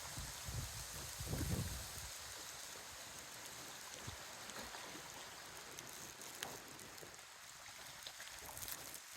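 Strong wind: a steady rushing outdoors, with gusts buffeting the microphone in a low rumble during the first two seconds.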